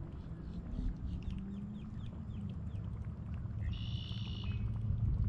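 Bird calls over a low rumble: a quick series of short chirps, then a single longer, high call near the end.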